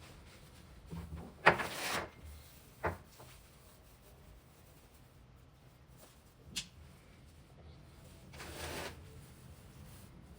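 Quiet room with scattered household handling sounds: a knock and scrape about one and a half seconds in, a short knock soon after, a sharp click midway, and a rustling swish near the end.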